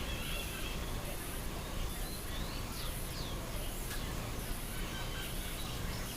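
Birds chirping in the background: a few quick, downward-sliding chirps about two and a half to three seconds in, over a steady low background noise.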